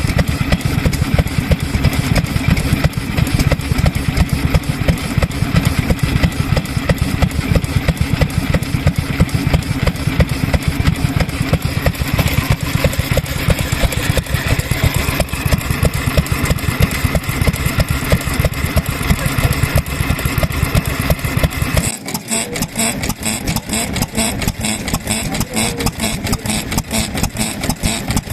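Vintage Japanese stationary kerosene engines running with a rapid, uneven beat; about two-thirds of the way through the sound cuts abruptly to a single engine firing with a more even, regular beat.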